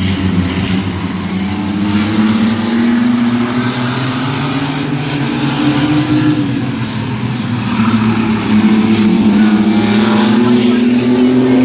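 Mini trucks racing on a speedway oval, their engines running at full throttle, the pitch rising and falling in long swells. It gets louder about two thirds of the way through as the pack comes nearer.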